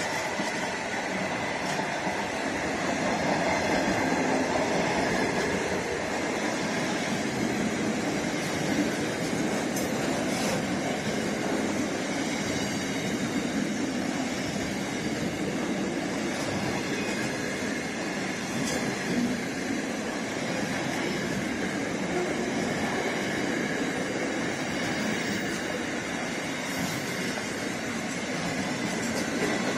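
Freight train's container flat wagons rolling past at speed: a steady rumble of steel wheels on rail with a faint steady high tone and a few clicks.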